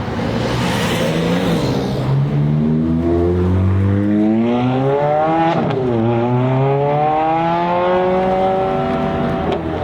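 A performance car's engine under hard acceleration, its pitch climbing steadily through the revs. There is a quick upshift about six seconds in, after which it climbs again, with another shift near the end.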